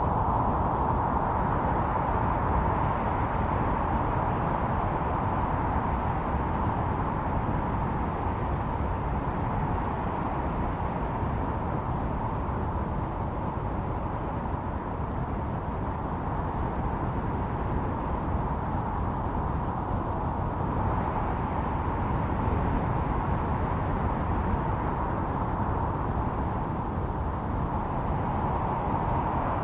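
Blizzard wind blowing steadily with a howling, whistling note. The howl dips slightly in the middle and swells again near the end, over a low rumble.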